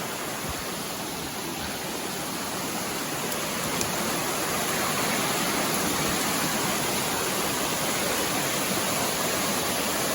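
Mountain creek water rushing and splashing over rocks, a steady dense rush that grows a little louder over the first few seconds, then holds even.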